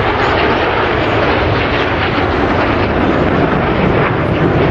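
BAE Hawk T1 jets of the Red Arrows flying past, their Adour turbofan engines making a loud, steady rushing jet noise.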